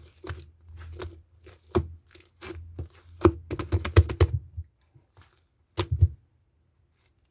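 Slime being squeezed and pressed by hand, making a rapid string of sticky clicks and pops for the first four and a half seconds, then two more pops about six seconds in.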